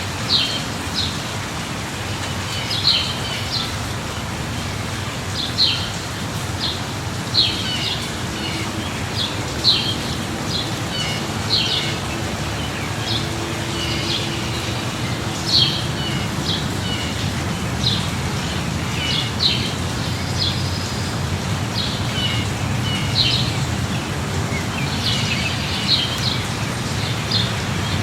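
Steady light rain with a low rumble underneath, while small birds chirp throughout in short, high calls every second or two.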